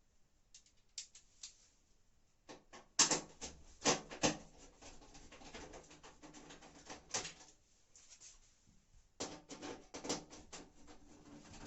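Screws being undone from a washing machine's sheet-metal panel with a Torx T-25 bit: sharp metallic clicks and knocks with a low hum, in two bouts a few seconds apart.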